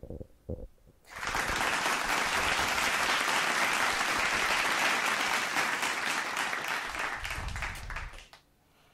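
Applause: a group of people clapping for about seven seconds, starting about a second in and dying away near the end.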